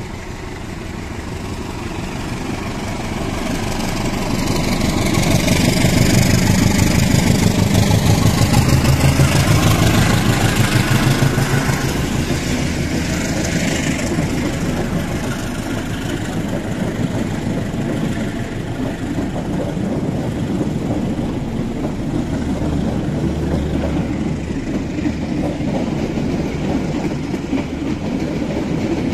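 Passenger train passing at speed: the CC 201 diesel-electric locomotive approaches and goes by, loudest a few seconds in, followed by a long, steady run of coaches rolling past on the rails.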